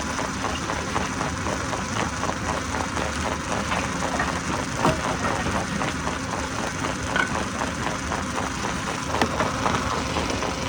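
Stone crusher machine running with a steady mechanical drone and a regular pulsing, broken by a few sharp knocks.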